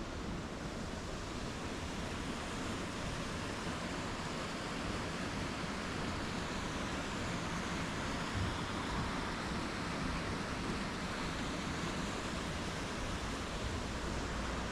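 Steady rush of river water pouring over rapids, an even hiss and roar with no breaks.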